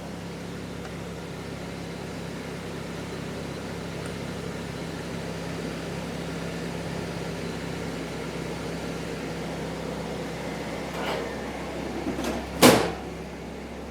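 Ford Model A four-cylinder engine idling steadily. A sharp clunk, the loudest sound, comes about a second before the end, with a fainter knock just before it.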